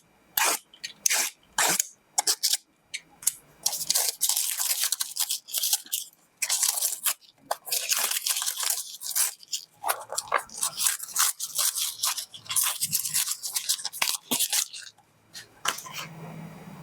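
Packaging being opened by hand. A run of short sharp snips or clicks comes first, then a long stretch of crinkling, rustling and tearing of plastic wrap and cardboard.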